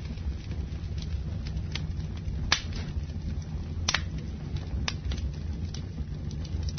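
Campfire burning: wood crackling with scattered sharp pops, the loudest about two and a half, four and five seconds in, over a steady low rumble of the flames.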